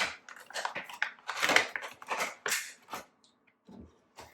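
Crinkling and rattling of objects being handled, dense and irregular for about three seconds, then a couple of soft knocks near the end.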